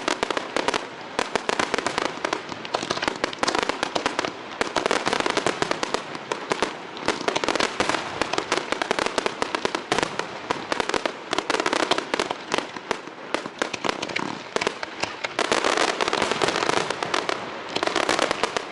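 Fireworks display: a dense, unbroken barrage of rapid bangs and pops.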